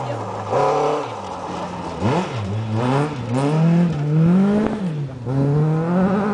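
Classic rally car engine revving hard as the car accelerates past on gravel. The pitch climbs and drops sharply at each gear change, about five times.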